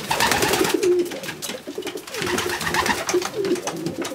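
Racing pigeons cooing in a loft, several birds calling over one another, with short clicks and rustling among the calls.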